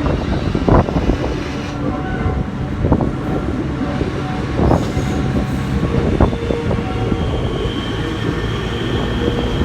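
Locomotive consist rolling slowly through depot tracks: wheels knock over rail joints about every second or so, and a thin wheel squeal comes in during the second half, all over heavy wind noise on the microphone.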